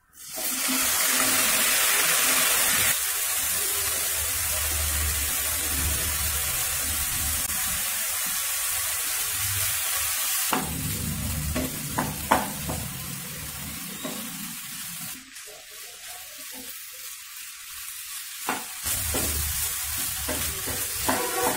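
Chopped raw banana sizzling in hot oil and onion masala in a non-stick frying pan, loudest as the pieces go in, then stirred with a spatula, with a few short knocks and scrapes of the spatula against the pan. The sizzle drops for a few seconds about three-quarters of the way through.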